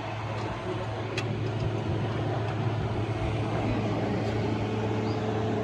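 A motor engine running steadily with a low even hum and no revving. There is a single light metallic click about a second in.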